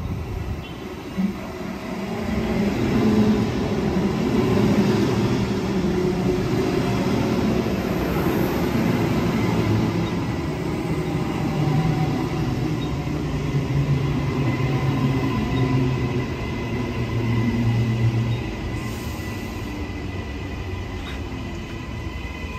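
Narrow-gauge train running past on the rails: a rumble of wheels that builds about two seconds in, holds, and eases near the end, with a thin steady whine above it. A single knock about a second in.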